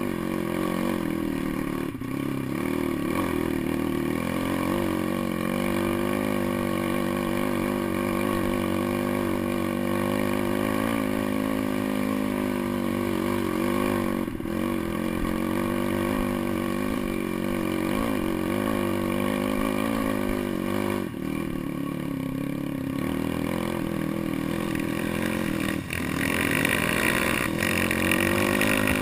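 Pit bike engine running under changing throttle while riding off-road. The revs waver steadily, with brief dips a few times, and the engine gets louder near the end.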